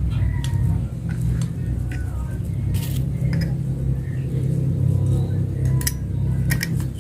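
Scattered light metallic clicks and taps as a cutting disc and its lock nut are fitted onto an angle grinder, over a steady low rumble.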